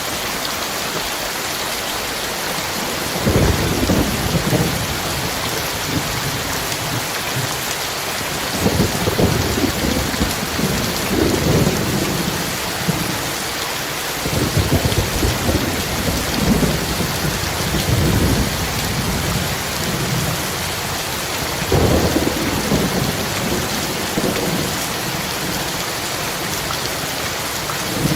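Heavy rain falling in a steady hiss, with thunder rumbling over it several times: a few seconds in, in long rolls through the middle, and again near the end.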